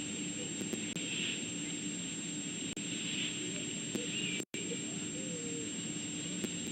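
Steady hiss and electrical hum of an outdoor webcam microphone, with faint soft outdoor sounds over it. The audio drops out completely for an instant about four and a half seconds in.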